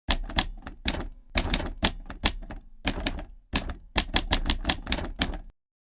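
Typewriter keys clacking in quick, irregular runs of sharp strikes, broken by short pauses, stopping abruptly about five and a half seconds in.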